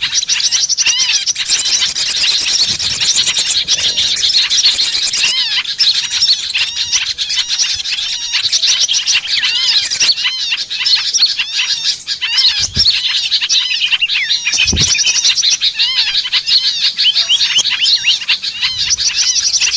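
Dense chorus of many small songbirds chirping and twittering at once, overlapping short rising and falling calls with no pause, the kind of recording played as a lure to draw small birds in. Two brief low thuds come about halfway through.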